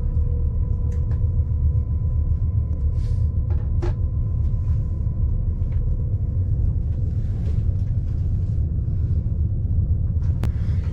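Steady low rumble of a fast passenger train heard from inside the carriage while it runs at speed, with a couple of faint clicks and knocks.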